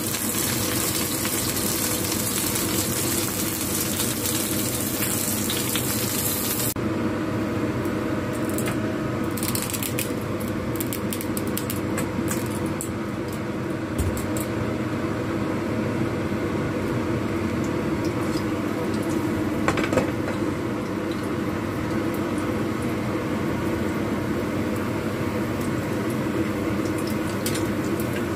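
Slices of eggplant sizzling in hot oil in a frying pan, stopping abruptly about a quarter of the way in. Then a steady hum with scattered faint crackles as oil heats in the nearly empty pan.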